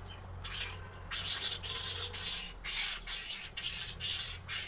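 Birds squawking loudly in harsh, rough calls, one after another about twice a second, over a low steady hum.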